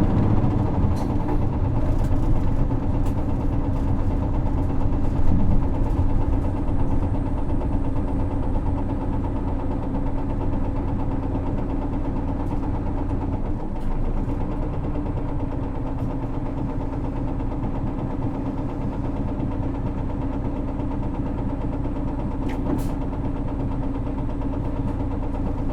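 Isuzu city bus's 6HK1 inline-six diesel engine running steadily, heard from inside the passenger cabin along with road noise, easing off a little after the first several seconds.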